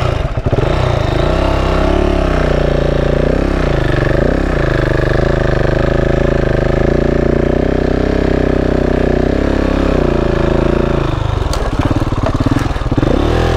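KTM 690 Enduro's single-cylinder four-stroke engine pulling under load through soft beach sand, its pitch mostly steady with a few brief dips and rises, easing off near the end. The bike is being ridden on the clutch, which the rider thinks is probably not good for it.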